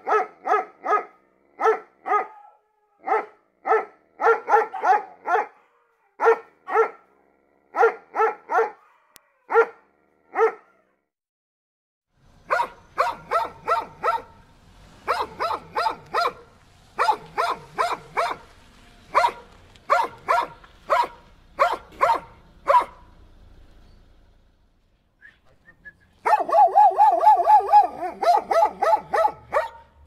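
Dogs barking in runs of short barks: one run, a brief pause about eleven seconds in, then another run of barks over a faint low hum, and near the end a faster burst of barks.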